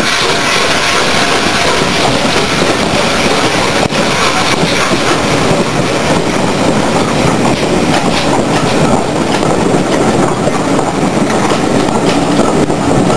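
Railway coaches of a Travelling Post Office mail train rolling past close by: a loud, steady rumble of wheels on rail with clicking over the rail joints.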